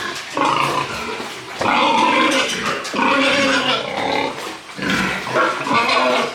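Piglets squealing loudly: several long, harsh squeals one after another with brief gaps between them.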